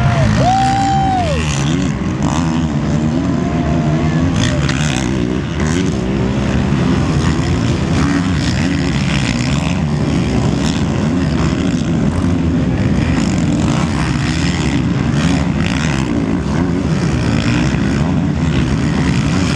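Motocross bikes racing: a loud, steady blend of many motorcycle engines, with single bikes revving up and down as they pass.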